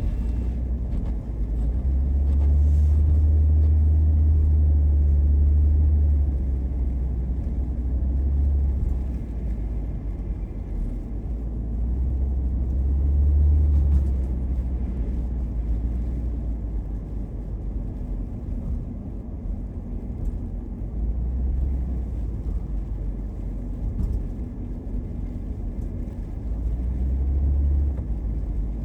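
A car being driven, heard as a low engine and road rumble that swells and eases several times.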